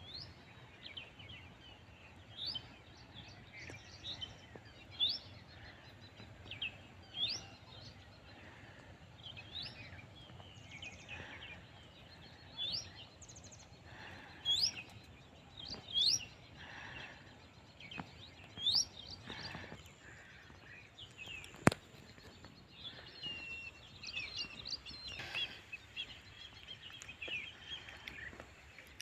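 Birds chirping: short rising calls repeated every second or two, with denser overlapping chirps near the end, over a faint steady hiss. A single sharp click about two-thirds of the way through.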